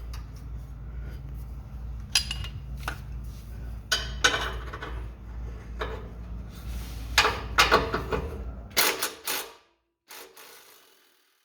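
Socket wrench ratcheting in quick runs of clicks, with metal clinks, as the 14 mm exhaust flange bolts are worked loose.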